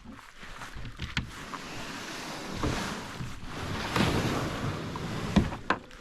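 Water sloshing and splashing around a small paddled boat as it is brought in to shore, with a few sharp knocks, one about a second in and two near the end.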